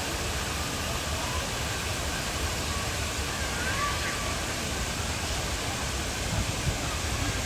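Steady ambient noise of a busy city space, an even wash of sound with faint voices in the distance.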